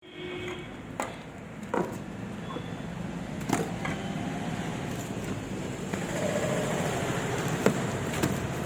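A few sharp knocks, about four spread out irregularly, over a steady low background hum.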